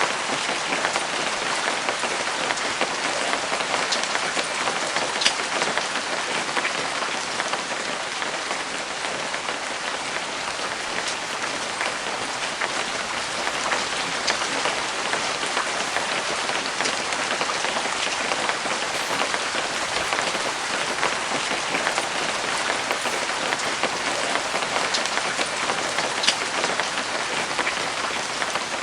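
Steady rain falling on a canvas cover, with many individual drops striking sharply over the hiss.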